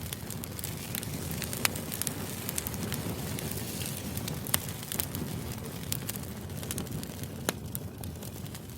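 Crackling fire ambience: a steady low rumble with scattered sharp pops and snaps, a few of them louder than the rest.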